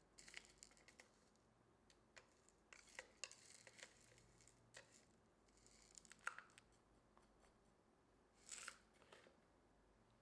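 Faint, scattered clicks and brief rustles of small hand work on a work surface, with a longer rustle near the end.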